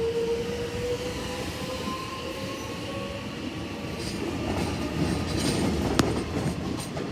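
Electric suburban train pulling away: its traction motors whine with a slowly rising pitch, then the wheels rumble and clatter louder over the rails, with one sharp click about six seconds in.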